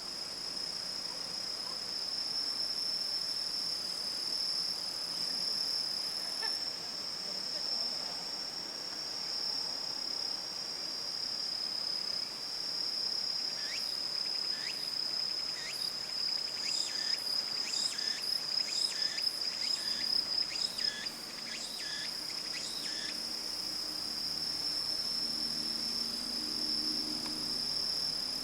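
Insects singing in an autumn park: a steady, continuous high trill throughout. Partway through, a run of short rising chirps comes in, roughly one to two a second, for about ten seconds.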